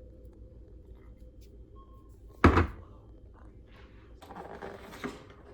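A single loud thunk about two and a half seconds in, then a short rustling scrape ending in a click, over a steady low hum.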